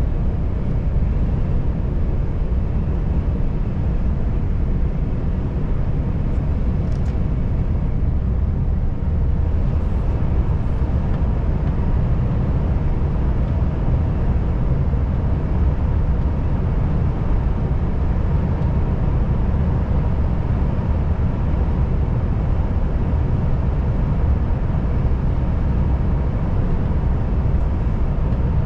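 Volvo FH540 truck's 13-litre six-cylinder diesel pulling steadily on the road: a constant low engine drone with road and tyre noise, a faint steady whine and a few faint ticks.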